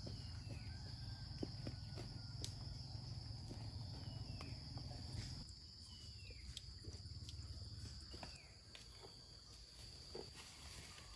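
Steady high-pitched insect drone, like crickets, with scattered light clicks and a few short bird chirps over a low rumble that eases about halfway through.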